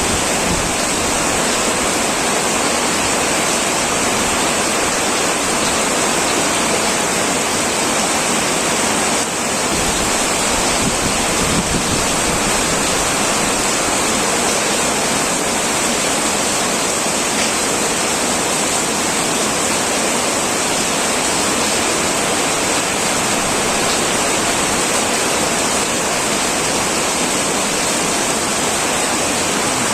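Heavy rain falling steadily on a metal roof, a dense, unbroken downpour hiss.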